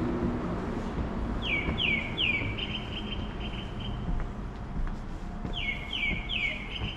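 A songbird singing two phrases about four seconds apart. Each phrase is three quick downward-slurred notes followed by a held high note, over a steady low background rumble.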